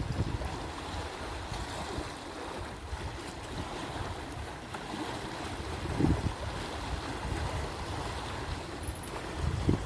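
Wind buffeting the microphone over lake waves washing ashore, with a strong gust about six seconds in.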